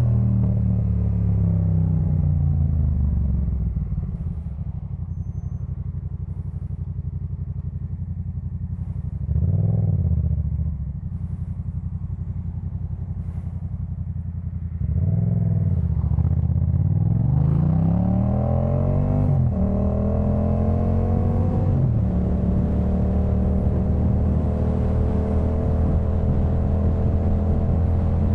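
2018 Yamaha MT-07's 689 cc parallel-twin engine through a Jeskap K4 full exhaust. The engine slows at first, then runs at low revs with a quick throttle blip about ten seconds in. From about fifteen seconds it revs up through a gear change near nineteen seconds, then settles into a steady cruise.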